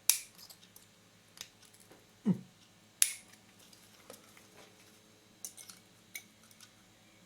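Sharp clicks and light taps of a small metal tool prying at a lens's plastic parts. The two loudest clicks fall just after the start and about three seconds in, with a few faint ticks later.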